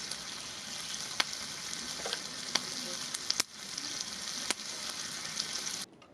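Meat sizzling in a hot pan, a steady hiss with a few sharp pops of spitting fat. It cuts off suddenly near the end.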